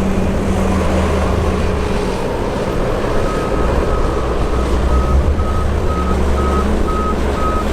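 Large off-road end-dump haul truck's diesel engine running with a steady low rumble. About three seconds in a reversing alarm starts beeping, about two beeps a second.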